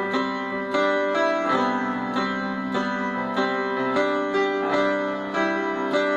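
Instrumental music: an instrument playing single pitched notes, each starting sharply and ringing on, about two notes a second.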